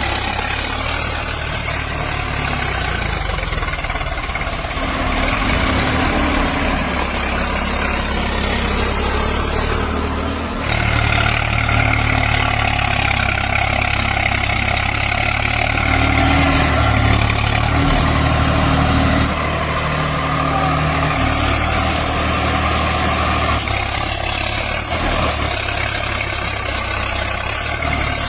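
Engine-like motor running steadily with a low hum. The sound changes abruptly about ten seconds in and again about nineteen seconds in.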